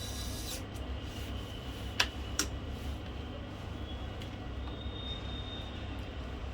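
Steady low background rumble with two sharp, light clicks about two seconds in, less than half a second apart, from small parts and tools being handled during laptop reassembly.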